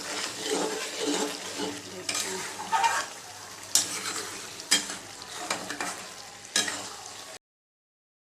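Chicken and masala frying in oil in a pan, sizzling steadily while being stirred, with several sharp scrapes and knocks of the spatula against the pan. This is the bhuna stage, frying until the oil separates. The sound cuts off suddenly near the end.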